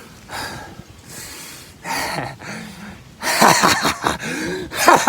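A man's breath in the cold: a few hard, gasping breaths, the loudest and longest about three seconds in, some of them voiced.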